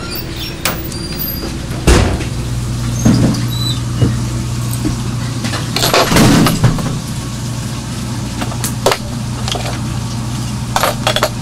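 A steady low mechanical hum with several sharp knocks and thumps scattered through it, the strongest about two seconds in and again about six seconds in.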